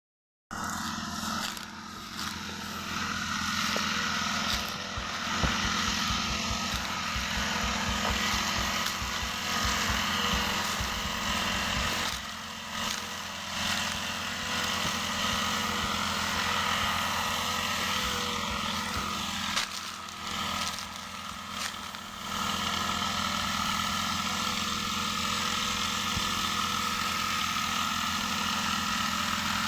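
Small four-stroke engine of a knapsack power sprayer running steadily, dipping briefly twice before settling back to an even run.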